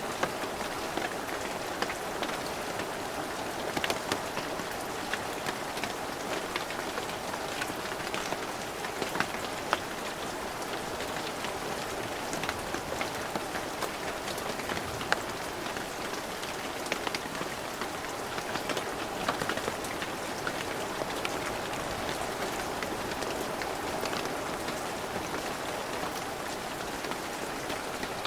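Steady heavy rain falling, an even hiss with many sharp individual drop impacts scattered through it.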